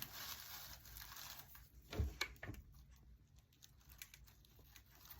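Quiet handling of dry raffia and craft materials: soft rustling, then a few small clicks and taps, the loudest about two seconds in.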